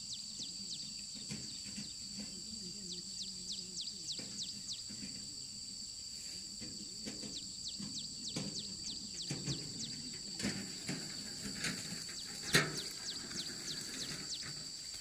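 Field insects buzzing steadily at a high pitch, with runs of short, quick falling chirps. Scattered rustles and knocks sound underneath, with one sharper knock near the end.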